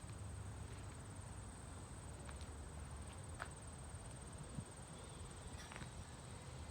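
Faint, irregular footsteps with a low steady rumble of wind on the microphone.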